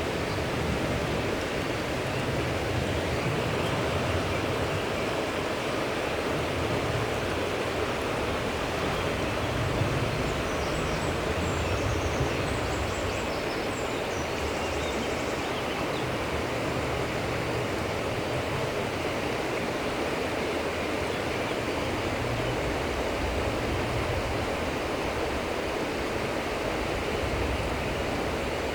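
Steady rushing of running water, even throughout, with a few faint high chirps about ten to fifteen seconds in.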